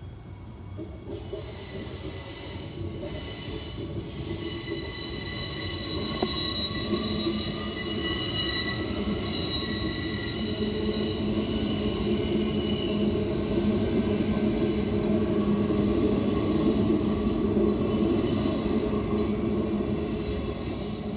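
Queensland Rail electric commuter train passing over a level crossing. Its wheels squeal in several steady high tones, and a rumble swells from about six seconds in and eases near the end.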